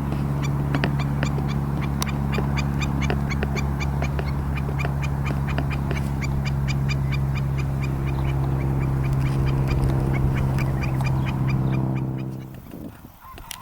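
Hawaiian stilts calling, a rapid run of short, sharp, high calls overlapping one another. Under them a steady low hum runs and cuts off near the end.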